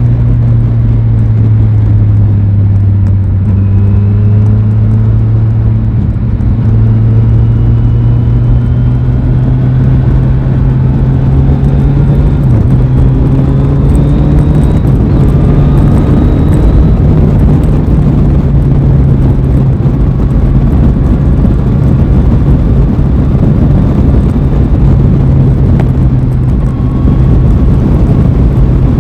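Aprilia Tuono 660's parallel-twin engine pulling steadily under way, its note sagging slightly a few seconds in, then climbing gradually for about ten seconds and holding, over a steady rush of noise.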